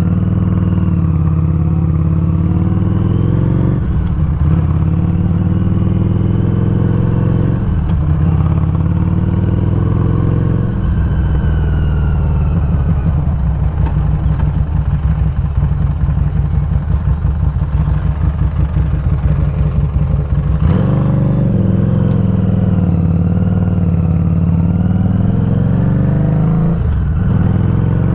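Harley-Davidson Street 500's V-twin running through a Firebrand Loose Cannon slip-on muffler while riding. It pulls up through the gears, the pitch climbing and then dropping at each shift, settles to a steadier, lower, pulsing run in the middle, and climbs again near the end.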